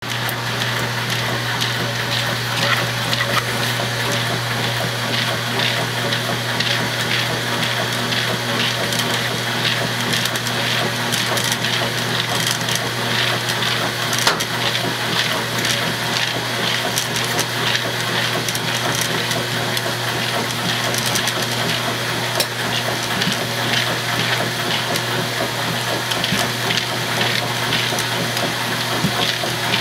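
Washing machine running with a steady low hum and continuous irregular crackling and clicking, a noise that its owner fears may mean the washer is broken.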